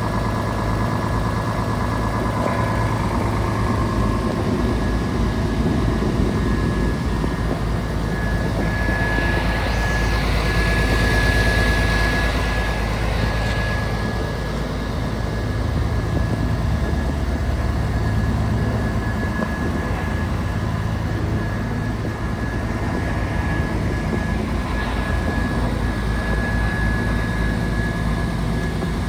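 Scania P450 tractor unit's 13-litre straight-six diesel engine running steadily, a low drone with a steady high whine over it. It swells louder for a few seconds about a third of the way in.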